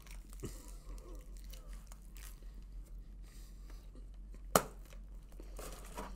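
Faint chewing of a bite of pepperoni pizza, with one sharp click about four and a half seconds in.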